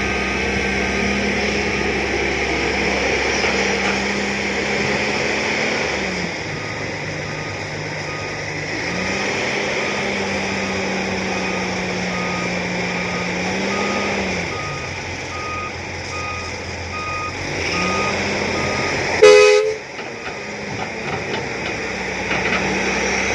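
John Deere 595D excavator's diesel engine running, its pitch dropping and recovering twice under changing load, with a warning alarm beeping steadily through the middle. Near the end, a short loud blast.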